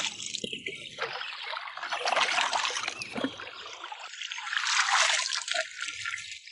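Water trickling and dripping, uneven, swelling louder around the middle and again a little later.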